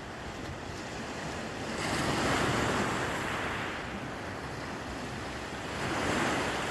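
Sea waves washing onto the shore, the surge swelling about two seconds in and again near the end.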